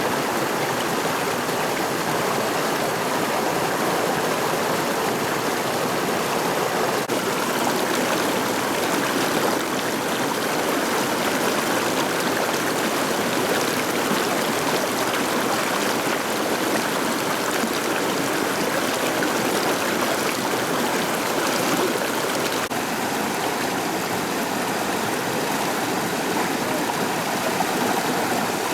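The McCloud River rushing, a steady loud water noise, its tone shifting slightly about 23 seconds in.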